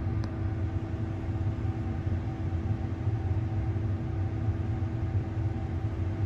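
Combine harvester running steadily: an even low engine drone with a constant hum.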